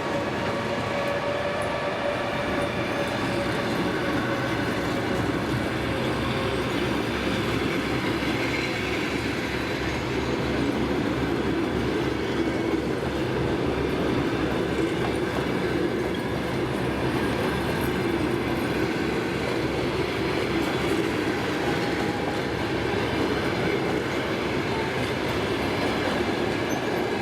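Passenger train cars rolling past as the train pulls out of the station, wheels clattering steadily over the rail joints with a faint wheel squeal.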